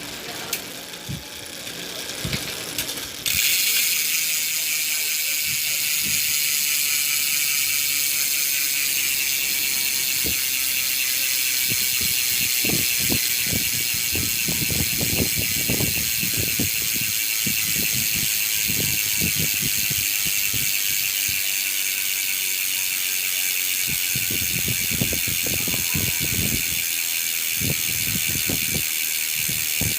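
Weapon Fever rear bicycle hub freewheeling: its pawls ratchet in a loud, dense high buzz that starts suddenly about three seconds in and holds steady. Scattered low knocks come in the middle and near the end.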